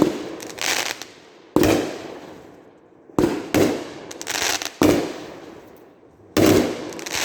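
Consumer multi-shot firework cake firing, about five shots roughly a second and a half apart; each is a sharp launch thump followed shortly by the bang and crackle of the break in the air.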